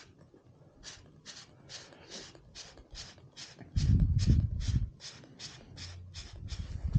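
Sanding block rubbed back and forth over the freshly tapered end of a wooden arrow shaft, even scratchy strokes at about two to three a second. Around four seconds in, a louder low rumbling noise lasts about a second.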